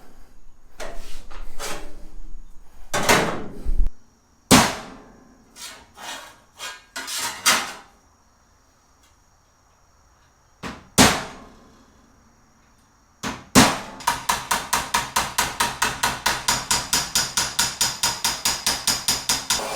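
Metal tool striking sheet steel during floor-pan patch work: a scattering of single sharp blows with pauses, then about 14 seconds in a fast, even run of strikes at roughly seven a second.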